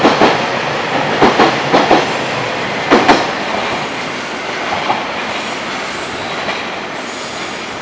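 Freight train wagons rolling past. The wheels clack over rail joints in a few paired knocks during the first three seconds, then give way to a steady rolling rumble that slowly fades, with a faint high wheel squeal.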